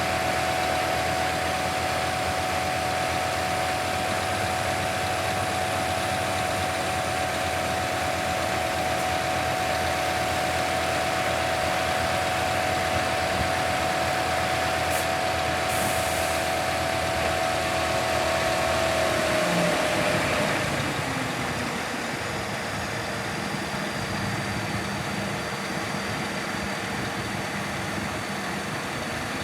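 Scania P280 crane truck's diesel engine running at steady raised revs, which drop about two-thirds of the way through and settle to a lower, steady idle.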